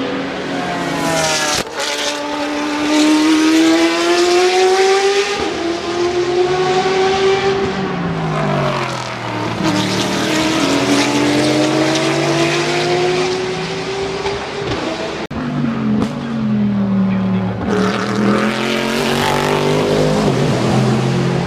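Race car engines at full throttle, the pitch climbing through the gears and falling away sharply as they brake and go past, several times over, with a couple of abrupt breaks between passes.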